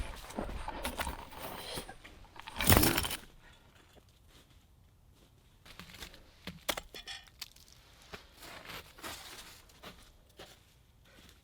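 Dry wood cracking and crunching as branches are broken up and handled. One loud crack comes nearly three seconds in, followed by softer scattered cracks and rustling.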